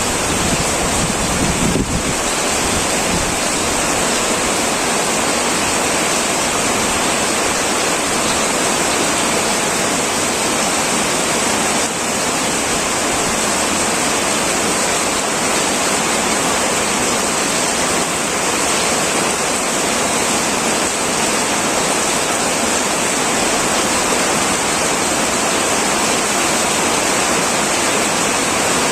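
Heavy rain falling steadily on a tin roof, a continuous even hiss.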